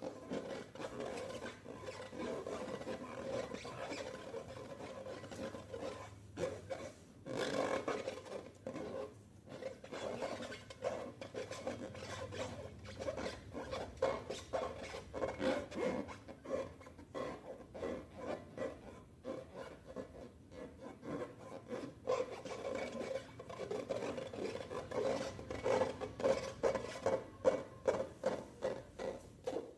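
Slime being mixed and worked by hand: a steady run of small sticky clicks and crackles over a rubbing, rasping texture, with the strokes coming more distinctly near the end.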